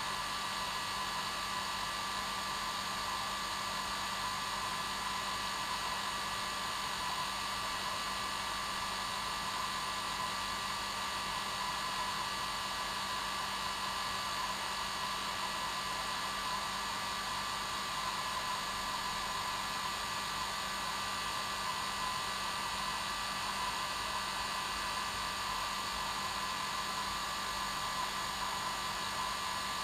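Hair dryer running steadily, a constant blowing hiss with a steady motor whine on top, unchanging throughout.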